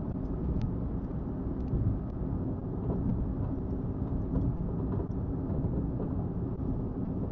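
Car driving at road speed, a steady low rumble of road and engine noise.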